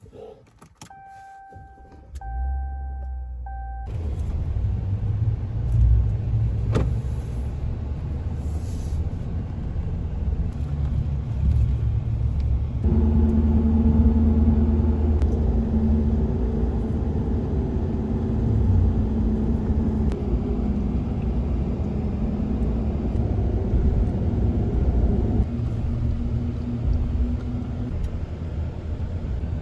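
A motor vehicle, likely the pickup truck, running with a steady low rumble. It opens with a short series of repeated beeping tones. From about halfway in, a steady set of pitched hums rides on top of the rumble for several seconds.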